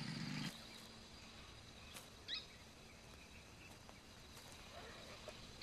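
Quiet bush ambience with a faint steady high-pitched insect-like drone and one short bird chirp about two seconds in. A low engine hum cuts off about half a second in.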